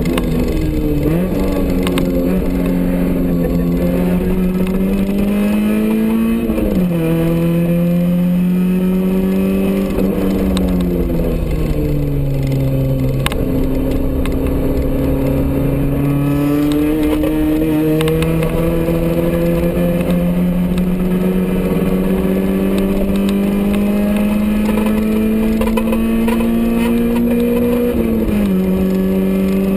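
Honda's engine heard from inside the cabin while driven hard on a circuit, revs climbing slowly through the gears with sharp drops at upshifts about six seconds in and near the end. Around ten seconds in the revs sag for a few seconds as the car slows, then jump back up on a downshift, over a steady rush of road and wind noise.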